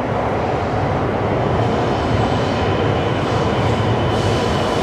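Shinkansen train running on the line, a steady loud rumble of wheels on rail with a faint thin whine above it.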